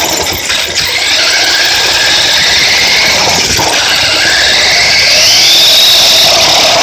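Radio-controlled trucks driving, their motors and drivetrains whining over tyre noise, the whine climbing in pitch about two-thirds of the way through as one speeds up.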